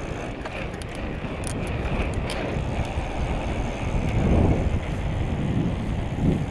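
Wind rushing over the microphone with tyre and road rumble from a moving bicycle. The rumble swells louder twice in the second half.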